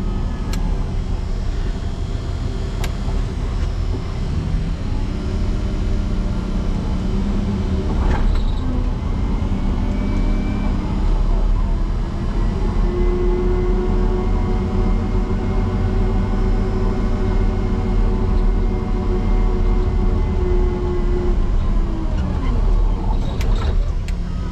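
Motor grader's diesel engine working under load as the V-plow is driven into a hard-packed snow drift. The engine pitch shifts up and down several times, is held high and steady for several seconds through the middle, then drops near the end.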